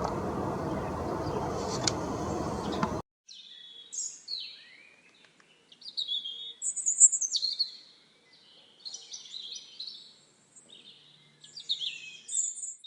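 Steady outdoor background noise with a few clicks, which cuts off abruptly about three seconds in. Then songbirds chirp and call in short, high, downward-sliding phrases, the loudest a little past the middle.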